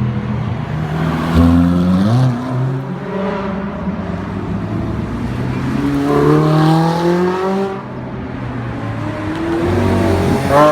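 Sports car exhausts accelerating hard, the engine note climbing in pitch: a short rise about two seconds in, a longer pull that drops off about eight seconds in, and another climb near the end.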